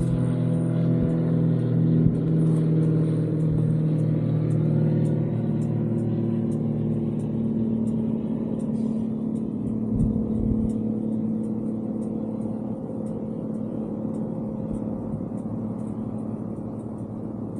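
Kawasaki Z900RS's inline-four engine through its stock exhaust, running steadily at low revs. A light ticking sounds about twice a second over it.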